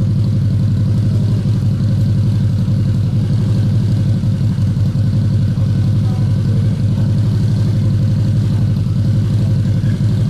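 Harley-Davidson Night Rod's liquid-cooled 60-degree V-twin idling steadily through a Vance & Hines aftermarket exhaust, with a deep, even low pulse.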